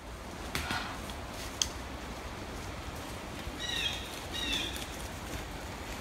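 Woodland ambience with a steady low rumble; a bird gives two short calls, a second or so apart, about four seconds in. Two light clicks sound in the first two seconds.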